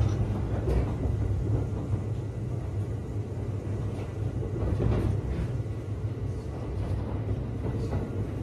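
Kintetsu 1253 series electric train running along the track: a steady low rumble of wheels on rail, with a few faint clicks from rail joints. No motor whine is heard.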